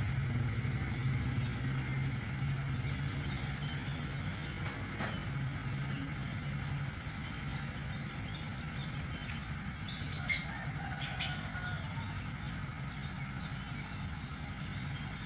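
Canary giving scattered short chirps, a few at a time, over a low steady motor hum that drops away about halfway through.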